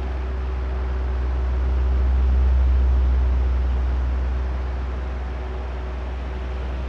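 Oscillating electric fan running: a steady airy whoosh over a low motor hum. It swells louder about two to three seconds in and then eases off as the fan head turns toward the microphones and away again.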